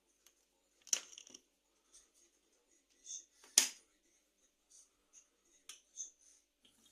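A few scattered sharp clicks and light knocks, the two loudest about a second in and at about three and a half seconds.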